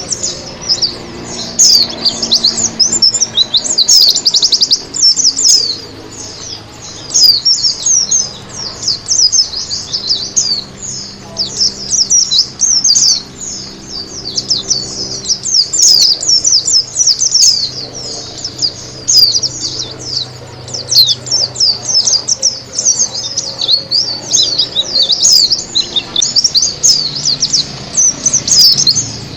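Pleci (Zosterops white-eye) song: a continuous, fast, high twittering of rapid sweeping chirps and trills, over a faint low hum.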